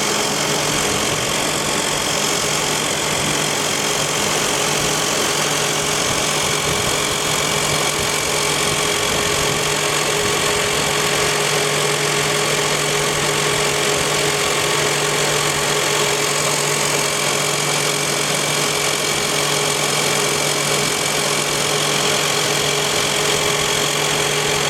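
2001 Toyota Highlander's drivetrain running, heard up close at the differential: a steady hum with a constant whine that doesn't change. The mechanic blames it on a differential that has leaked for years and is probably close to empty, with cupped tires as the other source.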